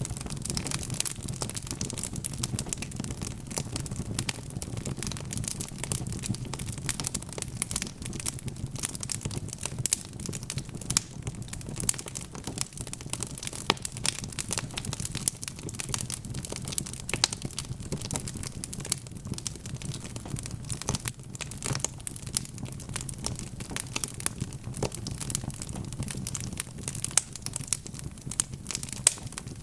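Wood fire in a fireplace crackling continuously: a dense run of irregular sharp pops and snaps over a steady low rumble of the burning logs.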